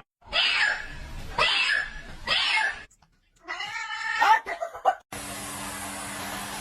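A cat yowling: three short raspy cries, then a longer wavering meow. A steady hum-like noise takes over about five seconds in.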